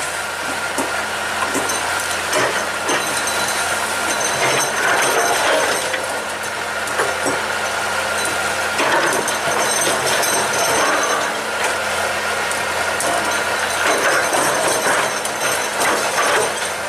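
Excavator at work: its diesel engine runs steadily under a scattered clatter of knocks and rattles from the digging and loading.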